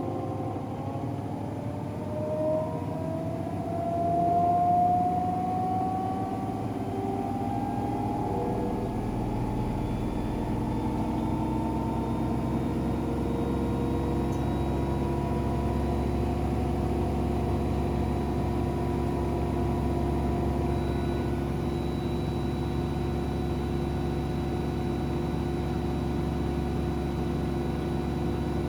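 AEG Protex Plus front-loading washing machine in its final spin: the motor and drum whine rises in pitch over the first ten seconds or so as the drum speeds up, with a brief swell in loudness about five seconds in, and then the machine runs steadily at spin speed with an even hum and a faint high whine.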